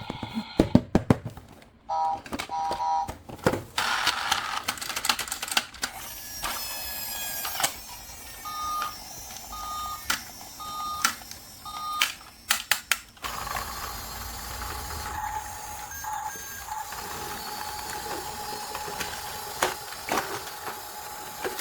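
Plastic toys being handled: a string of sharp clicks and knocks, with brief electronic tones about two seconds in and a run of four short, evenly spaced beeps in the middle.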